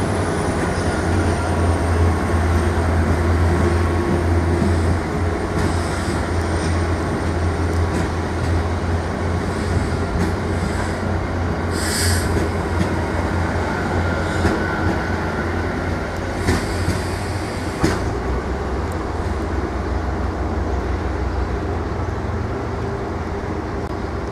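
Talgo 7 passenger coaches rolling slowly past as the train pulls away from a stop. There is a steady rumble and low drone, and irregular sharp clacks as the wheels cross rail joints, the loudest about halfway through.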